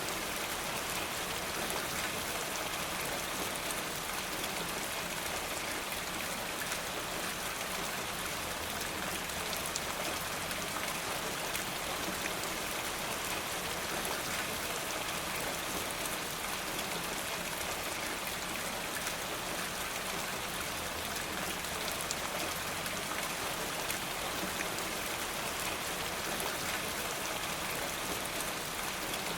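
Steady rain falling: an even hiss with many small ticks of drops scattered through it, keeping the same level throughout.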